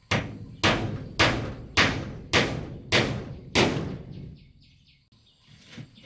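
A tool striking wood in steady, even blows, about seven strikes a little over half a second apart, stopping about four seconds in.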